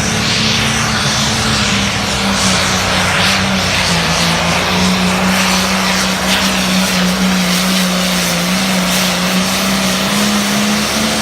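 Limited pro stock pulling tractor's turbocharged diesel engine running flat out under load, a loud steady drone whose pitch dips slightly and comes back up a few times.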